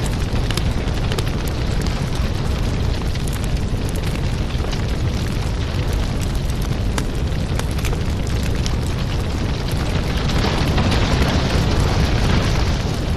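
Firewood burning: a steady low rumble of flames with frequent small crackles and pops, a little brighter and busier for a few seconds near the end.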